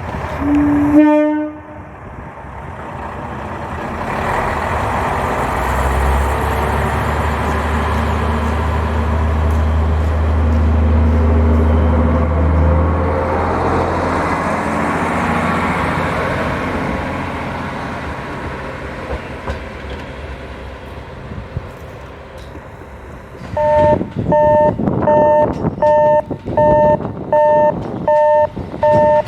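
A brief train horn toot, then a train passing with a rumble that swells and fades over about twenty seconds. Near the end a railway level-crossing alarm starts, ringing in steady repeated two-tone dings.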